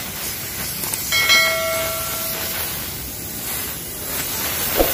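Steady hiss of a washer's spray jet during a bike wash. About a second in, a metallic ring sounds and fades over a second or so, and a short knock comes near the end.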